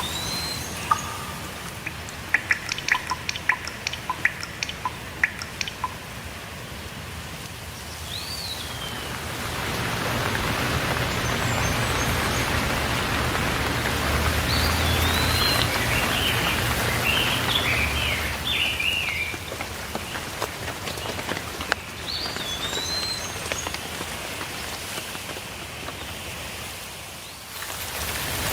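Steady rain falling, with songbirds chirping now and then over it. A run of sharp drips comes between about two and five seconds in. The rain grows heavier in the middle, with a low rumble under it, then dips briefly near the end.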